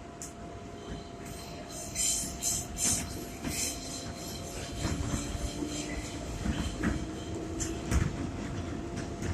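New York City subway 4 train heard from inside the car, running between stations: steady rumble and rushing noise with sharp metallic clatters that grow louder from about two seconds in.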